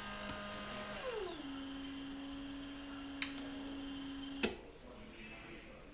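Merlin Tiltmaster garage door opener's electric motor running with a steady hum; about a second in its pitch glides down and it runs on at a lower pitch, then it stops with a sharp click about four and a half seconds in.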